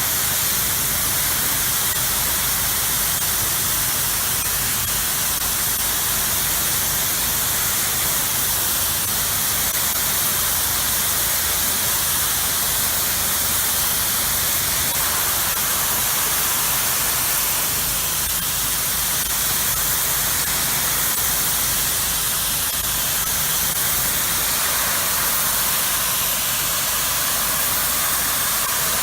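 Low-pressure rinse water spraying steadily from a soft-wash rig's wand, hissing against house siding to wash off the dissolved mildew and cleaner, over a steady low hum.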